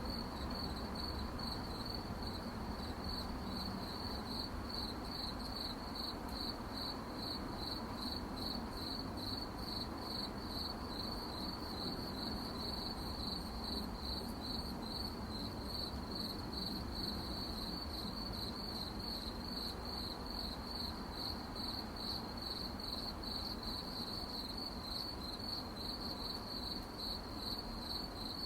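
Crickets chirping at night in a steady, even rhythm of high-pitched pulses, over a low background hiss.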